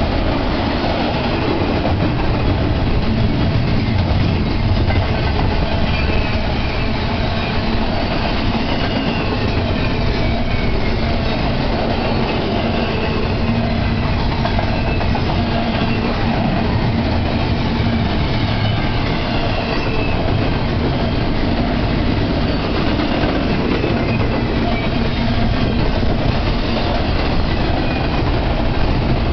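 Double-stack container train's well cars rolling steadily past close by: a continuous rumble of steel wheels on the rails with clickety-clack from the rail joints.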